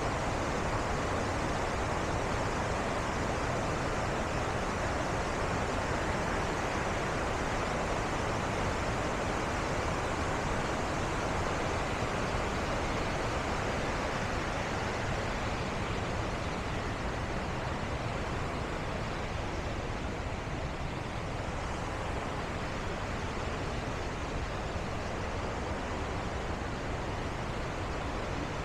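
Bow Falls on the Bow River: a steady rush of falling and churning water, a little quieter in the second half.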